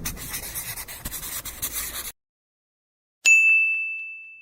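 Scratchy rubbing and handling noise for about two seconds, then an abrupt cut to silence. About three seconds in comes a single bright ping with a sharp attack, ringing on one high tone and fading away.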